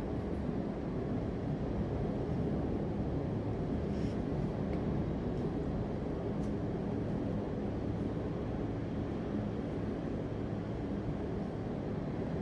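Steady low rumbling noise with a faint hum, even in level throughout, with a couple of faint ticks.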